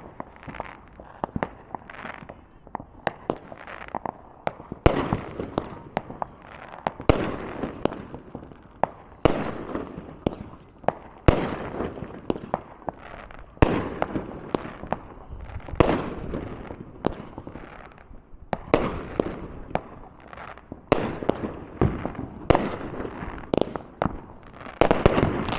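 Consumer fireworks going off: a long irregular string of sharp bangs and pops, often several a second, with crackling in between.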